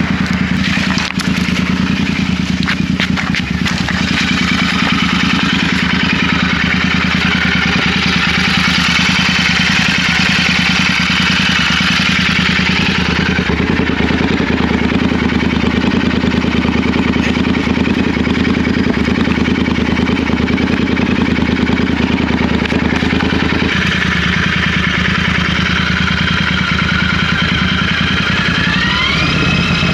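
Motorcycle engine running steadily under way, with a rising tone near the end.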